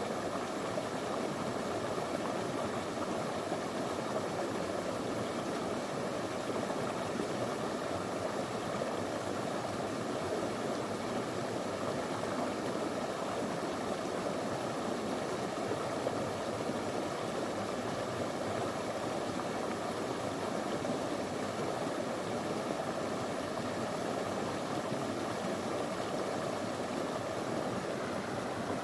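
Small river flowing over stones, a steady even rush of running water.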